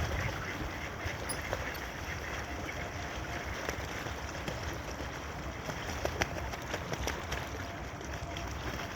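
Ducks on a lake quacking now and then over a steady wash of water and wind noise.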